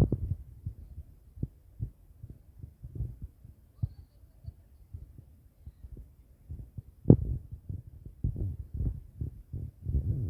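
Irregular low thuds and rumble of footfalls and handling noise on a handheld phone microphone while walking, with one sharper knock about seven seconds in.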